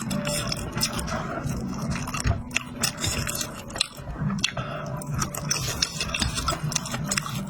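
Close-up eating sounds: chewing and biting, with many sharp crackly clicks and wet smacking throughout.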